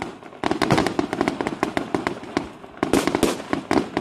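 Fireworks going off in rapid succession: a dense run of sharp bangs and crackling pops, several a second, with a louder cluster about three seconds in.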